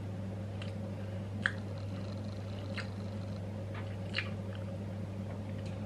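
Chewing and breaking a chewy chocolate chip cookie with crisp edges: a few small crunchy clicks scattered through, over a steady low hum.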